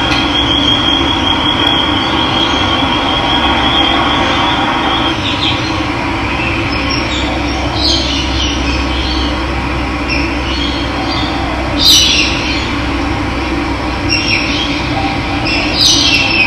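Steady rush of running water with birds calling over it: a thin high trill for the first five seconds or so, then short chirps about eight, twelve, fourteen and sixteen seconds in.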